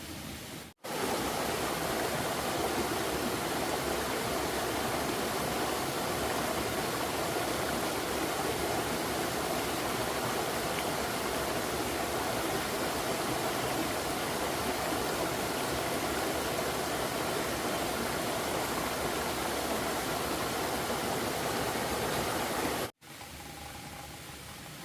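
Steady, even rushing of flowing water. It cuts in abruptly about a second in and cuts out abruptly near the end.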